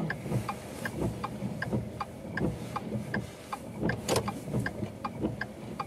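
A car sitting idle, running with a low hum and a regular ticking about two and a half times a second; a brighter sound stands out about four seconds in.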